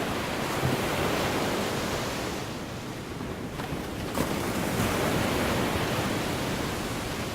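Gulf of Mexico surf breaking and washing up the beach, a steady rush that eases about a third of the way in and builds again as the next wave comes in.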